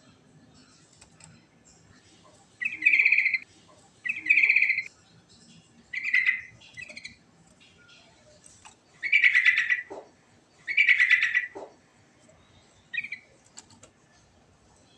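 Yellow-vented bulbul (trucukan) singing: about six loud, short phrases, each under a second, spaced a second or two apart.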